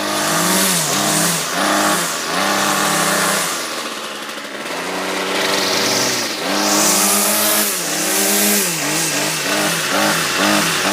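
Small handheld gas engine running just after a hard cold start, revved up and down repeatedly with the throttle and blipped quickly several times near the end.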